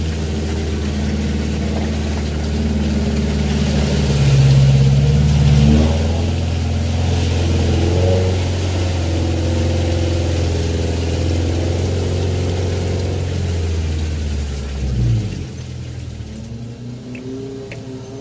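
Off-road jeep's engine running under load as it climbs a muddy trail. It revs harder about four to six seconds in, with the pitch rising and falling, and eases off to a quieter run near the end.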